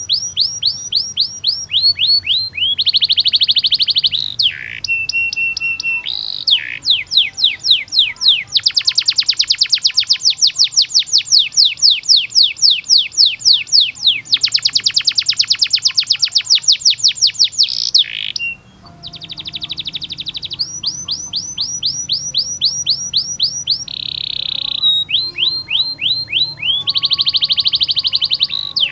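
Domestic canary singing a long, continuous song of fast repeated notes and trills (rolls), each phrase a rapid run of identical downward-sweeping notes before switching to another run, with a brief break about two-thirds of the way through. It is a loud, full 'gacor' song of the kind used as a masteran, a tutor song for young canaries to copy.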